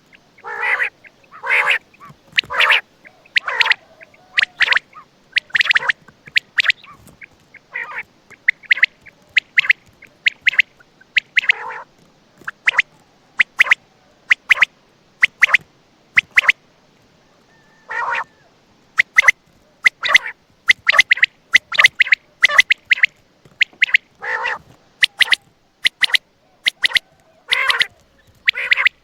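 Common quail calling over and over: quick groups of short, sharp notes mixed with lower, harsher calls, with brief pauses between groups.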